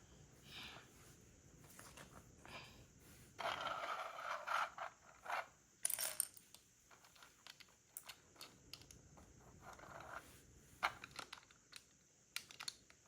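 Plastic Lego pieces being handled: scattered sharp clicks and light clatter, with a second or so of denser rattling about three and a half seconds in, as if rummaging through loose pieces.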